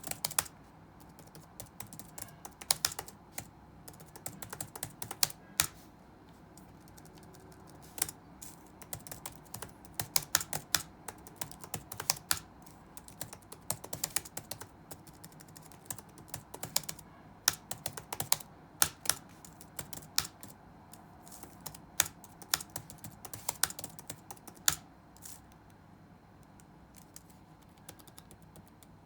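Touch-typing on a computer keyboard: irregular runs of quick keystrokes broken by short pauses, stopping about 25 seconds in, over a faint steady room hum.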